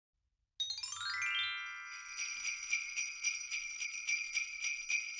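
Intro music: about half a second in, a run of ringing chime tones climbs upward, then sleigh bells are shaken steadily about four times a second.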